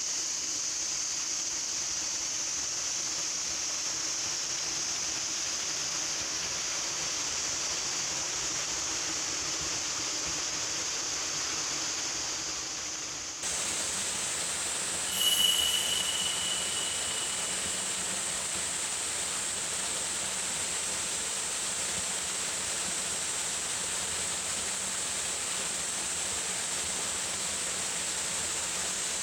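Small waterfall splashing steadily. About halfway the sound changes abruptly to a different take of the falling water, and a brief high-pitched tone follows soon after, the loudest moment.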